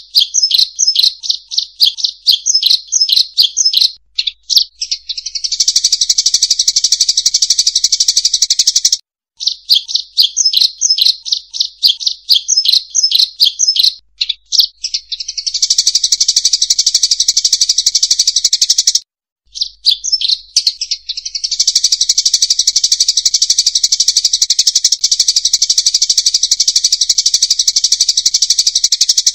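Emprit sawah (rice-field munia) lure call: high, fast chirping. Each cycle is a run of separate quick chirps followed by several seconds of dense, unbroken twittering. The cycle repeats as an edited loop, broken by abrupt silent gaps about every ten seconds.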